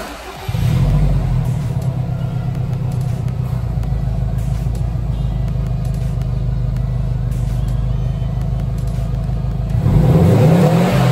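Subaru WRX STI S209's turbocharged 2.5-litre flat-four engine starting up through its quad-tip exhaust, settling into a steady idle, then revved once near the end.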